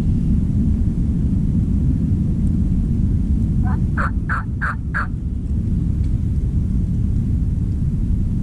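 Turkey yelping once: a quick run of five short, evenly spaced notes about halfway through, over a steady low rumble of wind on the microphone.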